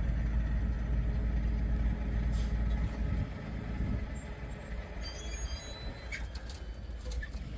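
Low, steady engine rumble from a heavy vehicle, easing off about three seconds in, with a few faint high thin tones near the middle.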